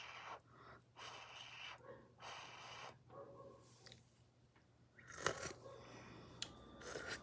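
Close-up chewing of food in several short bursts, then a sharp click about five seconds in.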